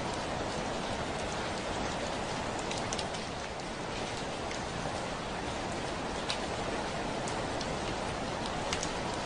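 Steady rain on a window pane: a continuous even hiss with scattered sharp taps of single drops, a few louder ones about three, six and nine seconds in.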